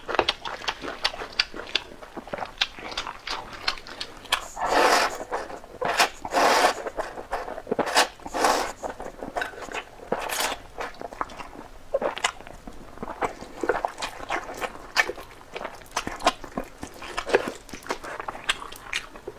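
Close-miked eating of noodles: several drawn-out slurps between about four and eleven seconds in, with wet chewing and lip-smacking clicks throughout.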